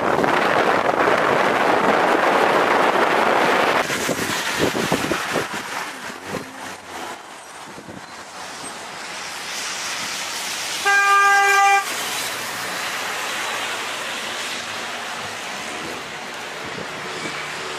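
Wind buffets the microphone for the first few seconds, then gives way to traffic noise. About eleven seconds in, a vehicle horn sounds once, a single steady toot lasting about a second.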